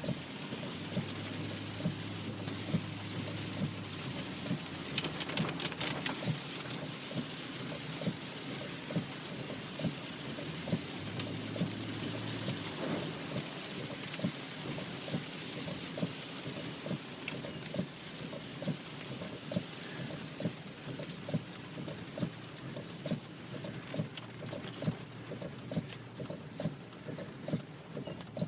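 Rain hitting a car's roof and windshield, heard from inside the car: a steady hiss crowded with many irregular sharp drop hits, over a low engine hum.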